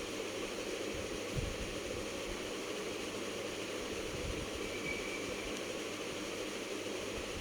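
Chicken leg joints deep-frying in oil in a kadai over low heat: a steady, even sizzle.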